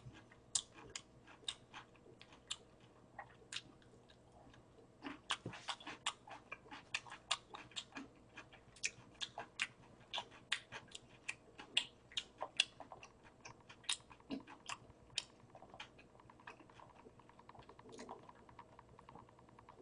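A person chewing a mouthful of burger: a run of small, irregular mouth clicks, a few each second, thinning out near the end.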